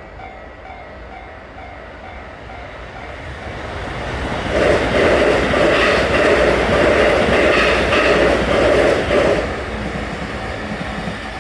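A train passing through a level crossing. Its noise builds from about three seconds in, is loudest for about five seconds with wheels on rail, then drops back to a lower rumble.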